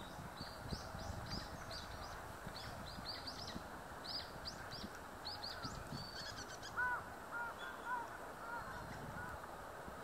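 Wild birds calling: a quick series of short, high chirps for most of the first six seconds, then a different bird giving lower, repeated arched notes from about seven seconds in, over a steady outdoor background.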